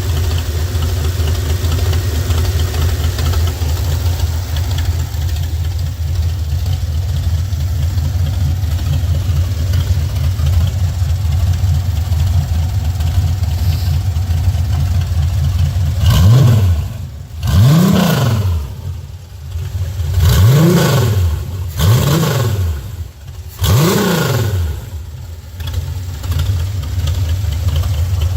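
The 4.3-litre Vortec V6 of a Scorpion sand rail idling steadily, then revved in five quick throttle blips about halfway through. Each blip rises and falls in pitch, and the engine settles back to idle.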